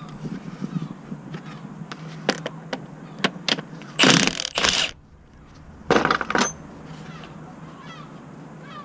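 Clinks and knocks of metal tools and parts being handled, with two short, loud bursts of noise about four and six seconds in.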